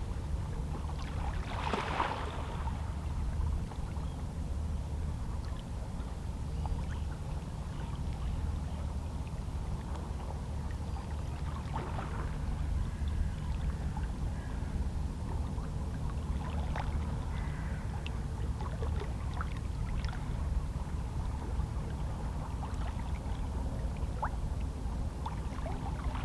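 Calm sea with small waves lapping and splashing against shoreline rocks: a steady low rumble with scattered brief splashes, the clearest about two seconds in.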